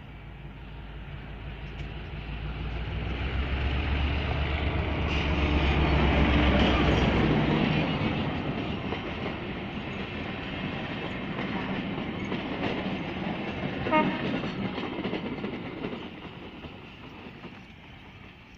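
EMD G12W diesel-electric locomotive, a 12-cylinder two-stroke, passing close as it pulls a passenger train away: a low engine drone that builds to its loudest about six seconds in and drops away, then the coaches rolling over the rails. A brief horn toot sounds about fourteen seconds in, and the rolling noise fades as the train recedes.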